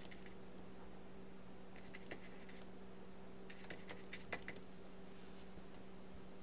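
Faint scratching and light tapping of a paintbrush working gouache, in two short clusters, over a steady low hum.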